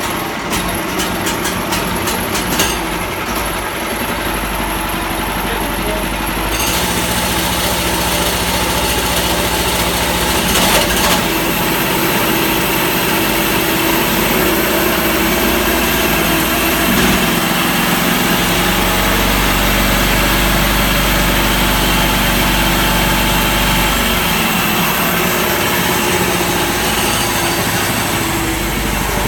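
Briggs & Stratton small gasoline engine running a homemade bandsaw sawmill, steady and loud. About six seconds in it speeds up and the sound gets fuller and louder as the clutch takes up the belt-driven pulleys and band blade.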